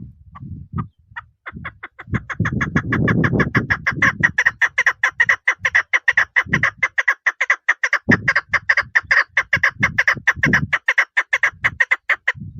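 Female chukar partridge calling: a few separate clucking notes, then from about a second and a half in a long, fast, even run of short chuck notes, about six a second, that stops just before the end. Irregular low thuds sound underneath.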